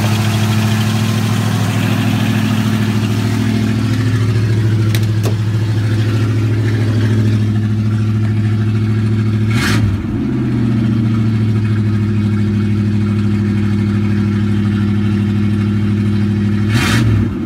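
1978 Ford Fairmont's 302 V8 running loud through a bare flex pipe, its muffler cut off, still warming up after a cold start. The steady engine note wavers briefly twice, about ten seconds in and near the end.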